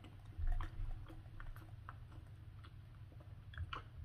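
Quiet close-up chewing of a mouthful of chili-topped beef sausage hot dog, with a dull low thump about half a second in and a few soft clicks near the end.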